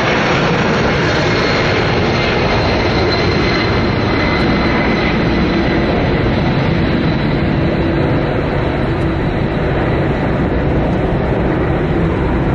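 Engines of a large transport aircraft running loud, a heavy rumble and rush with a thin high whine that slowly falls in pitch.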